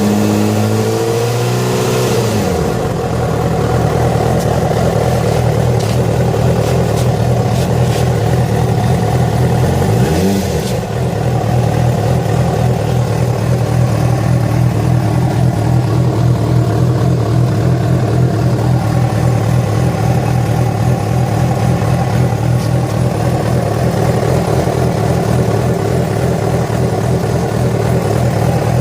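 Yamaha FZ6's inline-four engine coming down from revs to idle, with a brief rise in pitch about ten seconds in, then idling steadily. This is the strange engine noise that started after the bike was ridden about 70 km on two cylinders because of a failed ignition coil connector.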